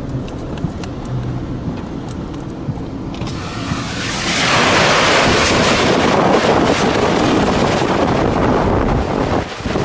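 Car running with a low road rumble, then from about four seconds in a loud rush of wind buffeting the microphone that holds until near the end.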